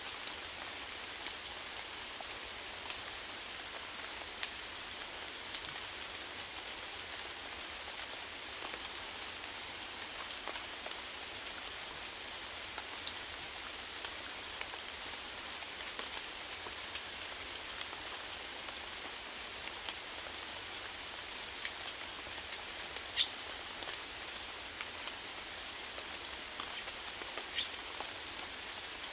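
Steady rainfall: an even hiss with many scattered drop ticks and patters.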